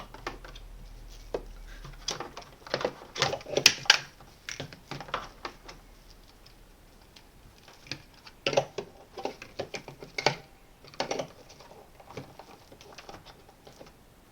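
Hard plastic clicks and knocks, irregular and in two clusters, as vacuum cleaner attachments are handled and pushed into their holders on the vacuum body.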